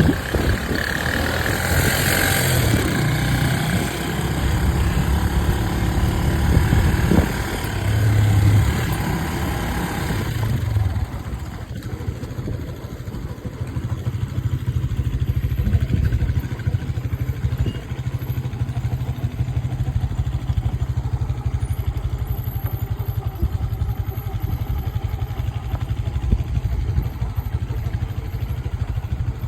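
Motorcycle engine running with a steady low rumble. About ten seconds in the sound drops and thins to a steadier low drone.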